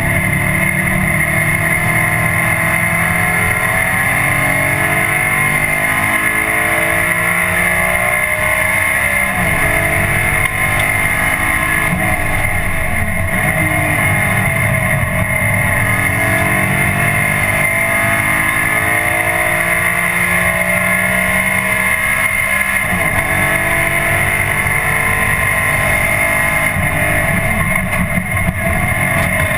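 Audi 4000 quattro race car's engine heard from inside the cabin, its pitch climbing under throttle and dropping back again and again while lapping, over a steady high whine. The engine is running with two broken pistons, which left it with no power.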